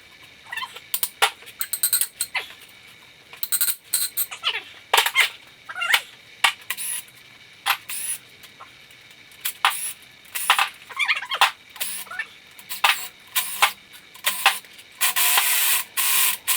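Metal hand tools and engine parts clinking and knocking on a workbench, with many sharp clicks, a few short squeaks and a denser rattling stretch near the end.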